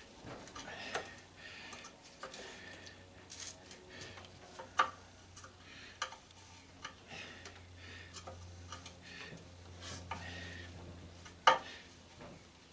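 A screwdriver working a stuck screw loose: scattered light metallic clicks and scrapes, with a sharper click near the end.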